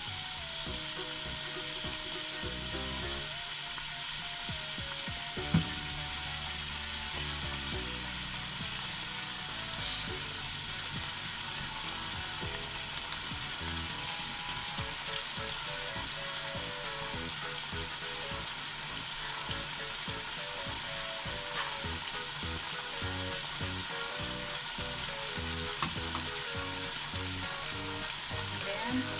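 Chicken liver with onions, tomatoes and bell pepper sizzling steadily in a hot non-stick wok, with a single sharp click about five and a half seconds in.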